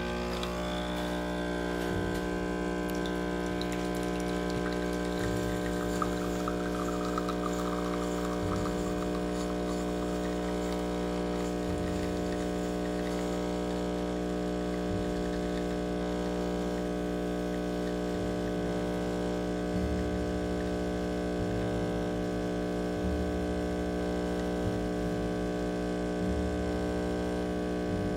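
DeLonghi EC680 espresso machine's vibratory pump humming steadily while pulling a shot through the coffee, for about half a minute without change.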